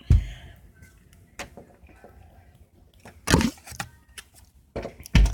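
Several heavy thumps and knocks: one just after the start, one about three seconds in, and two close together near the end, with faint clicks between them.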